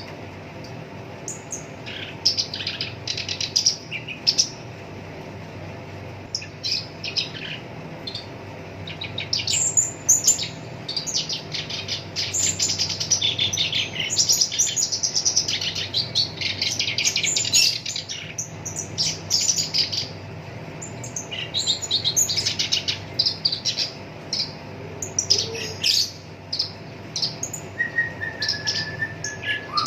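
Black-browed reed warbler singing a rapid, rough chattering song in bursts, densest in the middle. A steady whistled note comes in near the end, over a low background hum.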